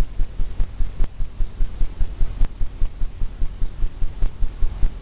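Palette knife tapping oil paint onto a 16 by 20 stretched canvas. Each tap drums the canvas with a dull low thump, about three a second in an even run.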